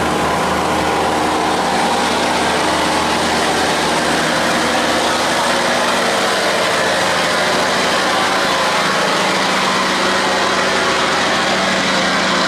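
A barge's engine running steadily under throttle, a constant low drone with a steady rushing noise over it.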